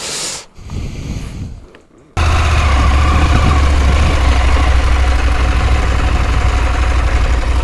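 Quiet handling noises, then about two seconds in a KTM 890 Adventure's parallel-twin engine comes in abruptly and runs steadily at a low, even note under a loud rushing noise.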